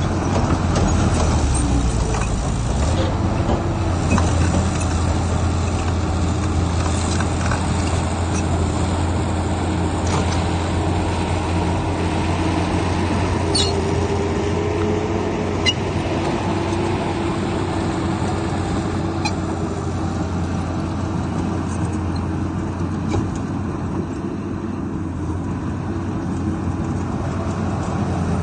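Heavy diesel earthmoving machinery running steadily under work, a deep engine hum with a few brief metallic clicks.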